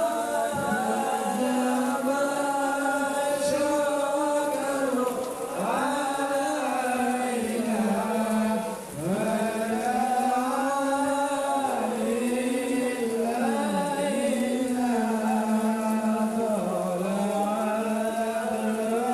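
Sholawat, Islamic devotional praise of the Prophet, chanted by voices in long held melodic lines that glide between notes, with a brief breath pause about nine seconds in.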